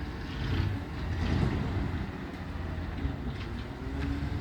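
Recycling truck's engine running with a steady low rumble; a faint whine comes in during the second half.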